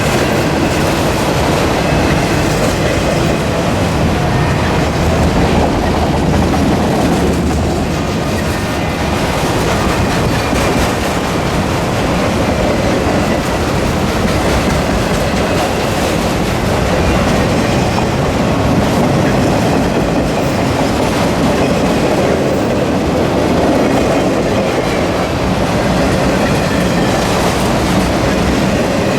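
A freight train rolling past close by, its cars' wheels clattering steadily over the rails.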